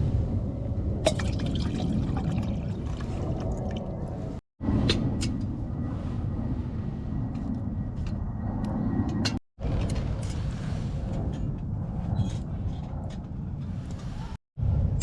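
Wood fire burning in a small barbecue grill with a cooker on top: a steady low rumble with scattered sharp crackles, cut off abruptly three times.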